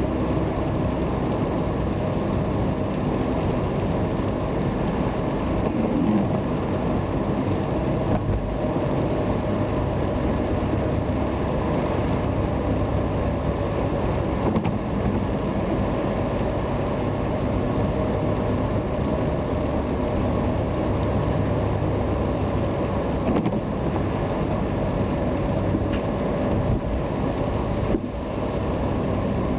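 A vehicle driving steadily on wet roads: a steady engine tone under continuous road and rain noise, with a few faint clicks and creaks.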